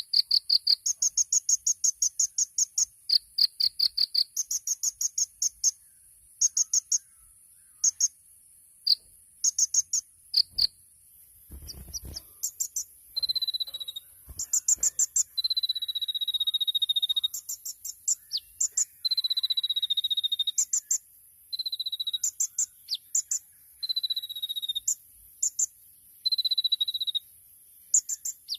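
Kolibri ninja sunbird singing in short, very fast high-pitched trills, repeated burst after burst; about halfway through, the song changes to clear whistled notes that fall slightly, alternating with short trills. A steady high insect-like hiss runs underneath, with one low thump near the middle.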